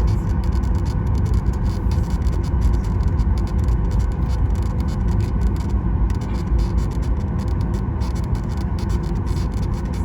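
Steady cabin noise inside a Boeing 737 MAX 9 taxiing: a low rumble with a faint steady whine from the CFM LEAP-1B engines at idle.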